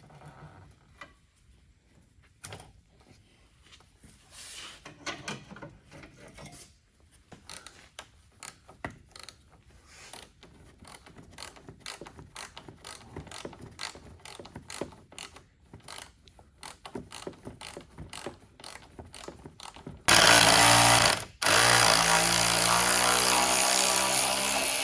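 Scattered faint clicks and knocks of hand tools and fasteners, then about twenty seconds in a power drill/driver runs loudly in two bursts, a short one and then a longer one of a few seconds, its motor pitch shifting as it works.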